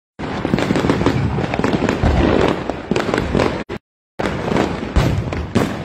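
New Year's fireworks and firecrackers going off all around: a dense, continuous crackle of bangs and pops. The sound cuts out completely for about half a second two-thirds of the way through.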